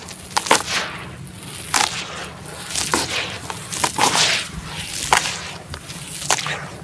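Dried sand-cement crumbling into water: about eight sharp cracking splashes at uneven gaps of roughly a second, each followed by a short hiss.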